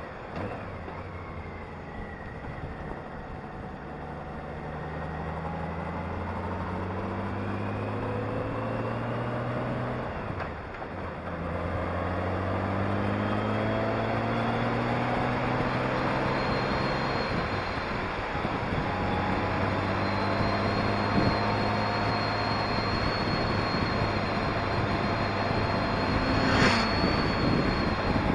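Honda Gold Wing motorcycle engine under way, its pitch rising as it accelerates, dropping briefly about ten seconds in, then climbing again and holding fairly steady, with wind rushing over the microphone. A short sharp click near the end.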